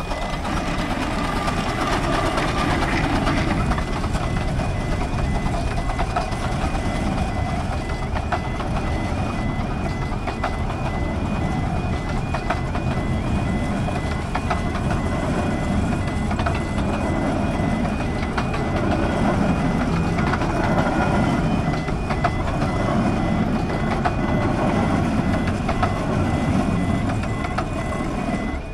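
A Romney, Hythe & Dymchurch Railway miniature train running across a level crossing, a steady rumble with frequent wheel clicks. Over it the crossing's electronic warning alarm repeats a high two-note tone.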